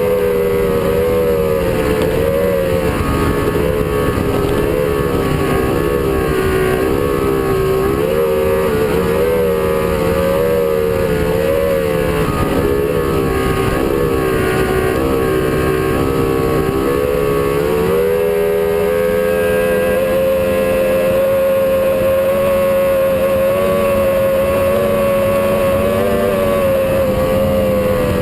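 Performance boat's engine running at speed, its pitch wavering up and down about once a second, then holding steadier and a little higher from about two-thirds of the way in.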